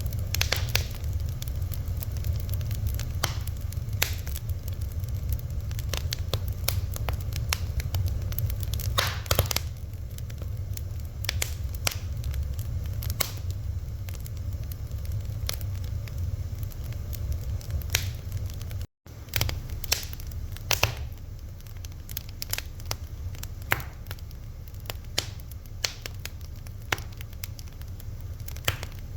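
Wood fire crackling, with sharp irregular pops and snaps over a steady low rumble. The sound cuts out for an instant about two-thirds of the way through.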